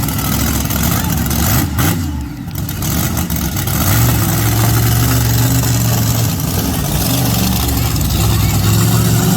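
Monster truck engine running loud; after a brief lull near two seconds it settles from about four seconds in into a strong, steady engine note.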